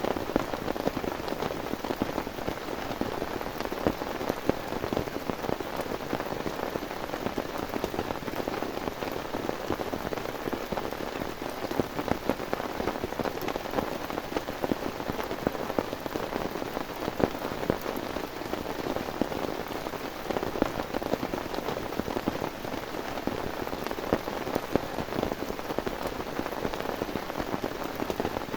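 Heavy rain falling steadily on a surface, a dense, even patter of countless drops with no letup.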